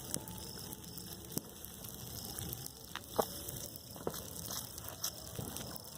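Faint scattered clicks and crunches of someone tearing and biting into roasted chicken, with a brief higher sound about three seconds in.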